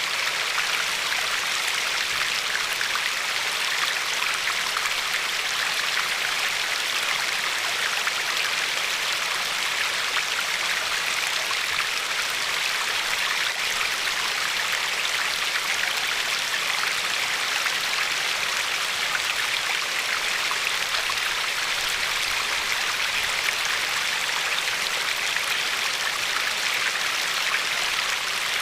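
Glacier-fed river flowing steadily over a pebbly bed, a continuous even rush of water with no pauses.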